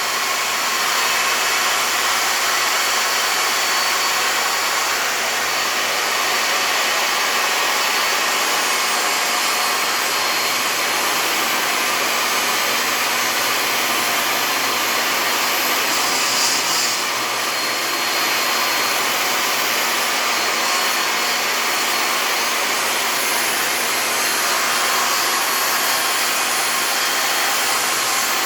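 A table saw running steadily, set up to rip fence pickets into 1-inch strips.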